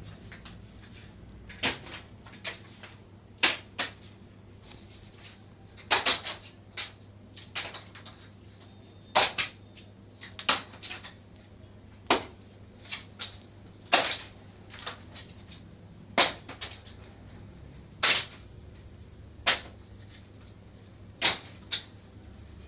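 A series of sharp clicks or knocks, irregularly spaced about one every second, over a steady low hum.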